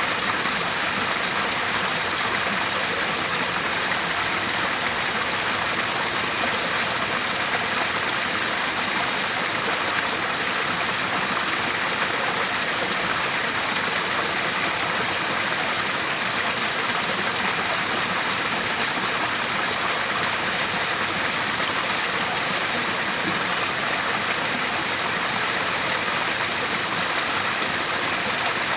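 Waterfall, its water rushing in a steady, unbroken hiss that stays even throughout, with little deep rumble beneath it.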